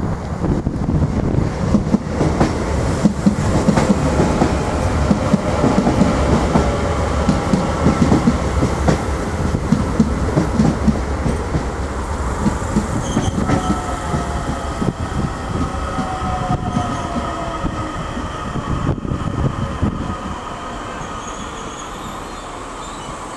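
Irish Rail 8520 class DART electric train arriving at a station: wheels rumble and clatter over the rail joints with some squealing. About halfway through the sound eases off and a whine falls in pitch as the train slows.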